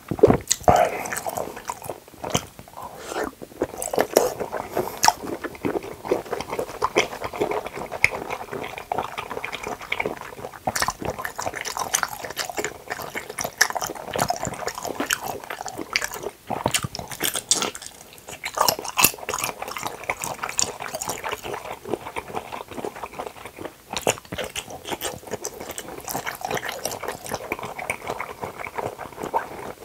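Close-miked chewing of soft cup jelly: wet squishing, smacking and mouth clicks, the jelly having just been sucked out of its small plastic cup.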